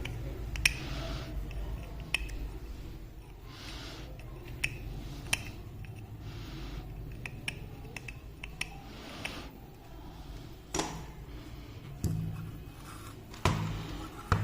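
Small hand tools at work on an opened CFL energy-saver bulb's wiring: scattered sharp clicks and snips with several short scraping strokes, over a low steady hum.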